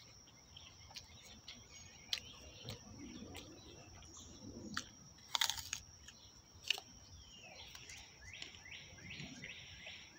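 Apple being bitten and chewed: a few sharp crunches, the loudest about five and a half seconds in. Birds chirp in the background, with a run of quick calls near the end, over a steady high-pitched whine.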